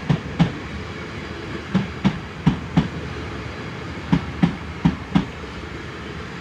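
Class 450 Desiro electric multiple unit rolling slowly past, its wheels clicking over a rail joint in pairs (clickety-clack) as each bogie crosses, over a steady rumble.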